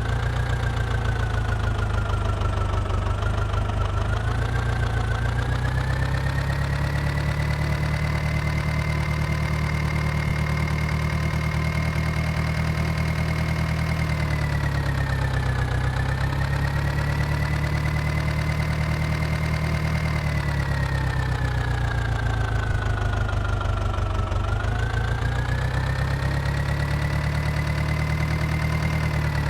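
New Holland orchard tractor's diesel engine running, its engine speed slowly rising and falling several times.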